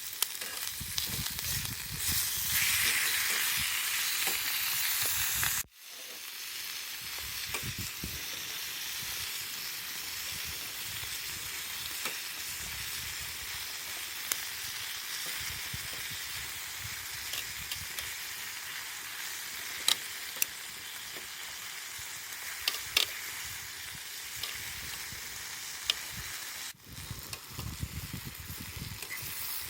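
Food sizzling as it fries in a pan over a campfire, a steady hiss with scattered sharp pops. It is louder for a few seconds near the start and breaks off abruptly twice, about six seconds in and near the end.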